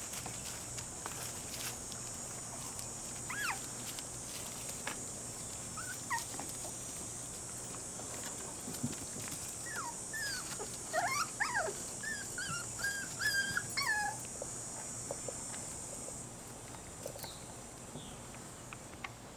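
Cocker spaniel puppies whimpering, with short high whines here and there and a run of them in the middle, over small clicks and a steady high hiss that stops near the end.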